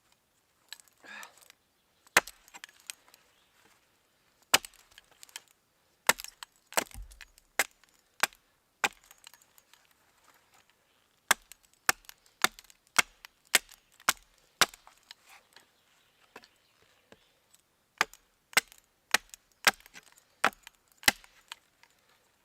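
Wood being chopped and cut: irregular sharp strikes of a blade into a stick, coming in clusters with short pauses, while a pot hanger is made.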